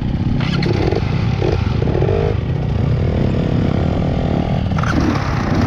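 Trail motorcycle engine running as the bike is ridden off-road, with some clattering.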